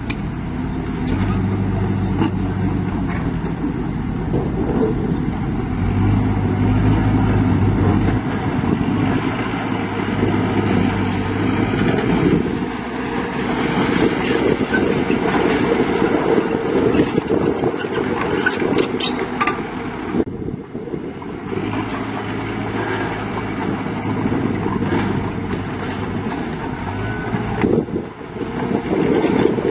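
Heavy diesel engine running, its low hum strong for about ten seconds near the start and again for several seconds past the middle, with a few sharp clicks or knocks in between.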